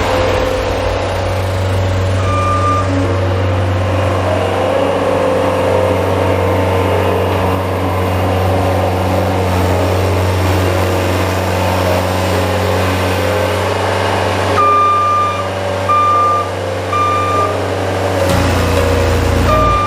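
Bobcat S175 skid-steer loader's engine running steadily, with its backup alarm giving one beep a couple of seconds in and then beeping about once a second near the end as the machine reverses.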